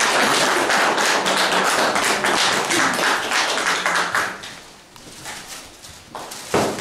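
A small audience applauding, dying away after about four seconds. A single knock near the end.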